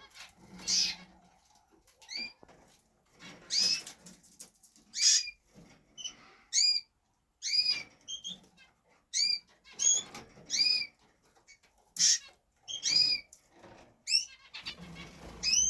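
Canaries giving short, clear calls one after another, roughly one a second with brief quiet gaps, rather than full song.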